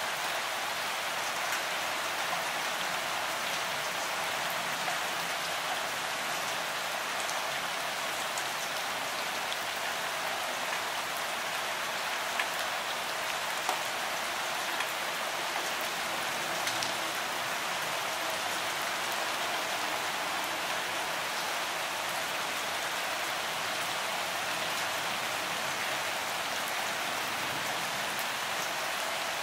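Steady rain, a continuous even hiss, with a few louder individual drops ticking in the middle.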